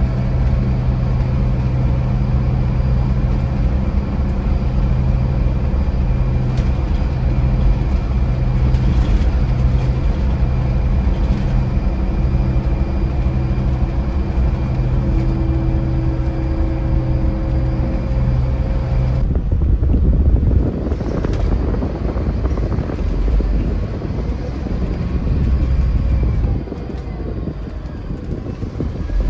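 Scania Irizar i4 coach's diesel engine running with a steady, pulsing drone under vehicle noise; about two-thirds of the way through the steady engine tone gives way to a rougher, noisier rumble.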